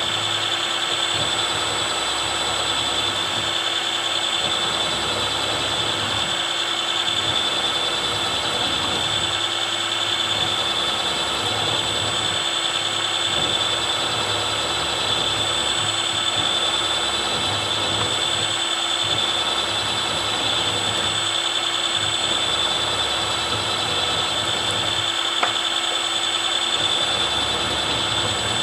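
Milling machine running with a 6 mm end mill plunge-cutting a slot: a steady, unbroken whine with a low hum beneath.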